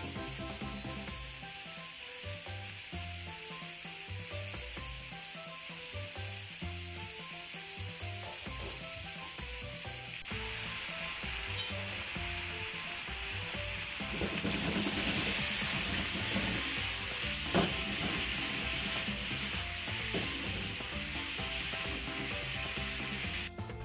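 Pork belly slices sizzling as they fry in a pan. The sizzle grows louder a little past halfway, with two sharp clicks along the way.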